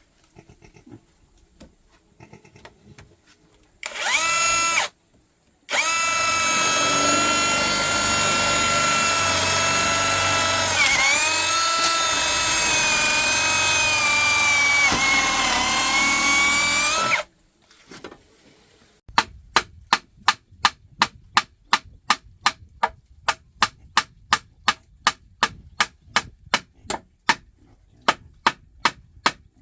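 Electric drill. It gives a short burst, then runs for about eleven seconds as a steady whine whose pitch sags a few times as the bit bites. After a short pause comes an even run of sharp knocks, a little over two a second.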